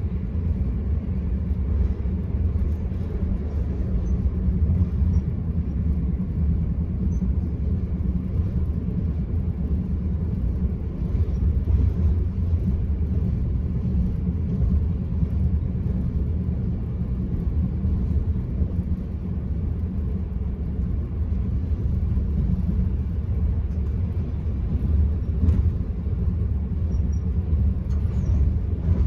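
Steady low running rumble of the Enterprise passenger train at speed, heard from inside a carriage: wheels on rail and the coach's running noise, with a couple of faint ticks near the end.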